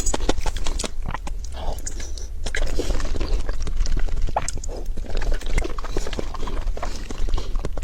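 Close-miked eating sounds: irregular crunches, clicks and smacks of sweets being bitten and chewed.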